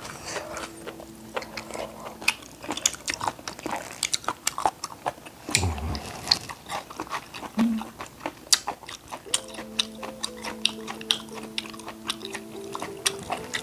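Close-up chewing and biting of seasoned raw octopus, with many short wet mouth clicks and smacks, over soft background music with held notes. A single low thump about six seconds in.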